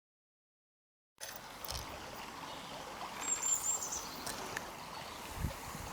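Silent for about the first second, then a river's flowing water making a steady rushing noise, with a brief high whistle about three seconds in.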